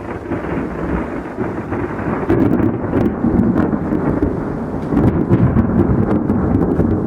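Thunder from a thunderstorm rumbling on and on, swelling louder about two seconds in and again near the end, with rain falling and a few sharp drop ticks.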